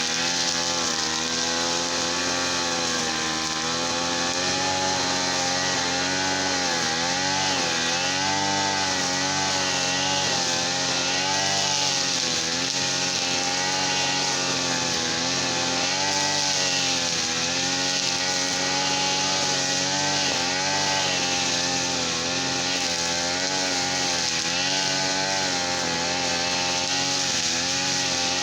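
A small two-stroke brush cutter engine running continuously, its pitch dipping and recovering every few seconds as the load changes.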